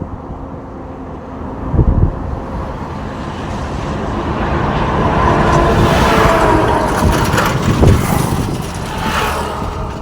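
A truck passing on the road: the engine and tyre noise builds for several seconds, is loudest about six to eight seconds in, then eases off.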